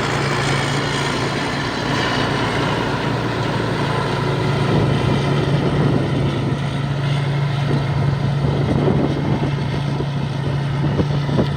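Rice combine harvester with a large Hino diesel engine, running steadily under load with a constant low drone and mechanical clatter.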